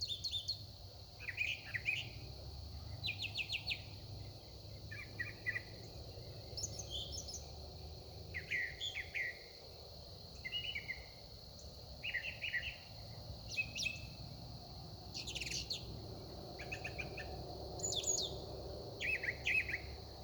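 A songbird singing a long run of short, varied phrases, about one a second, each different from the last, with quick chips, trills and sweeping notes.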